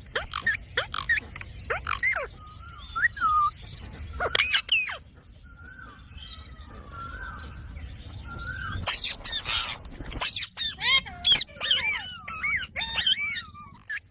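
Green parrots squawking and chirping in short calls that swoop up and down in pitch. There are softer, warbling calls around the middle, then a fast, louder run of squawks through the second half.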